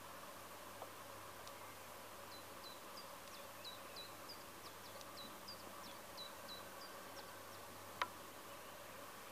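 Faint bird chirping in the background: a run of short, high notes, about three a second, over a steady faint hum. A single sharp click about eight seconds in.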